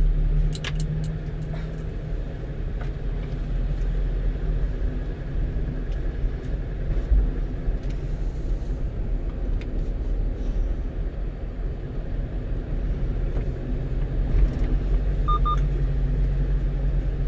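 One-ton truck's engine and tyre noise heard from inside the cab while driving, a steady low hum. A few sharp clicks come about a second in, and two short beeps near the end.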